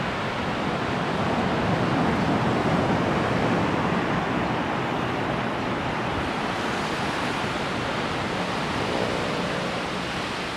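Ocean surf: a steady wash of waves, swelling slightly a couple of seconds in.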